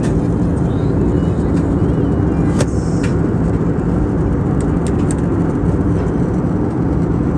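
Steady drone of an Airbus A320neo's cabin in flight: engine and airflow noise, even and unbroken, with a few faint clicks.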